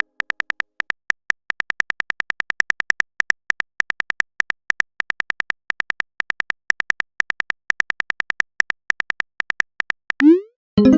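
Rapid run of typing clicks, several a second with small gaps, as of a message being typed out on a keyboard. A little after ten seconds a short rising swoosh sounds, then music comes back in.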